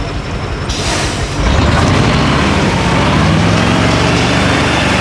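Diesel engine of a 6x6 Ural truck running under load, growing louder about a second and a half in and holding high revs with a slight rise in pitch.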